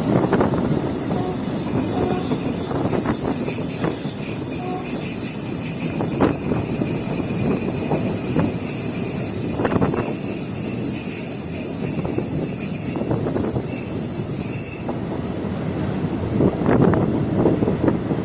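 Passenger train running, heard from on board: a steady rumble with occasional wheel knocks, under a steady high-pitched whine that fades out near the end.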